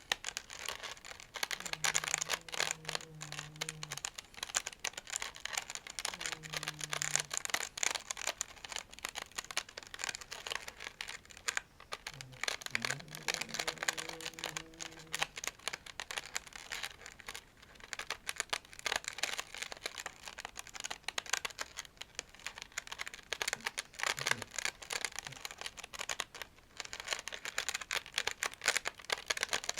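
A toy plate being scratched and brushed: a dense, continuous run of quick scratchy strokes and small clicks.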